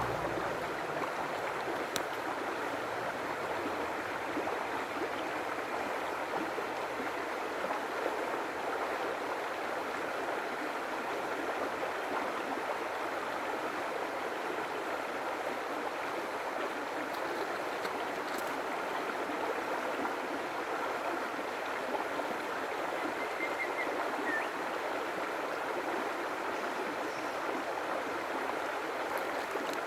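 A stream of water flowing steadily, an even rush without pauses.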